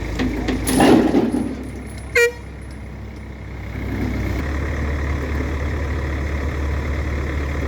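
Heavy vehicle engines running low and steady, with a loud rushing burst about a second in and a single short horn toot a little after two seconds.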